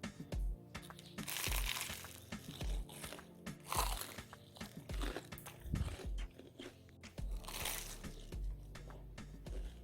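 Light crunching and rustling handling sounds with scattered clicks, over quiet background music with a steady beat.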